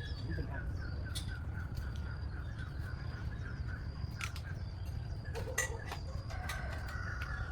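Birds calling, with a quick run of repeated chirps, about four a second, over the first three seconds, then thinner calls. A few sharp clicks stand out over a steady low background noise.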